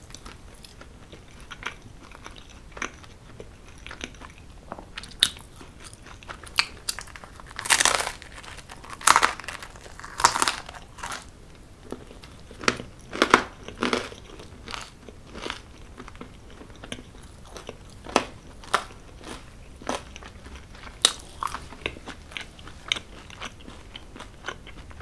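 Close-miked eating: a person biting and chewing extra-crunchy cheese pizza crust, with irregular crisp crunches. The loudest crunches come in a cluster in the middle.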